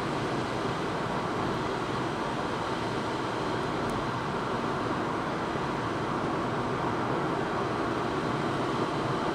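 Steady vehicle road noise, an even rumble with no distinct events.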